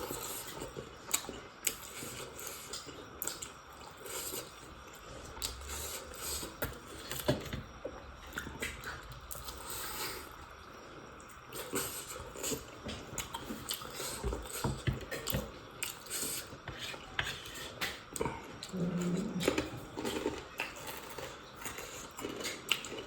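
Eating sounds close to the microphone: chewing and biting food, with cutlery and dishes clinking now and then in many short, scattered clicks.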